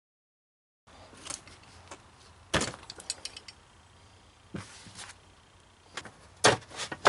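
Hand tools and small metal parts clinking and clanking while the EGR valve is unbolted from a Honda Civic cylinder head: scattered sharp knocks and a quick run of fine clicks, starting about a second in.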